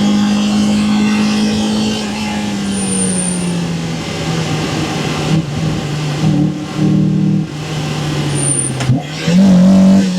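1998 Mazda MX-5 NB Miata's stock 1.8-litre four-cylinder engine and intake while driving: a steady engine note that then slowly drops in revs, broken by several short throttle blips. Near the end the note dips sharply and climbs back quickly as the engine picks up again.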